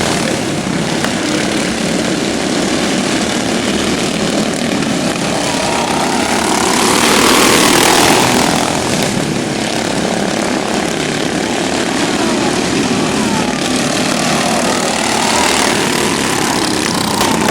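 Several modified racing riding lawn mowers' engines running together, with their pitch rising and falling. They swell louder about seven seconds in, as if passing close by.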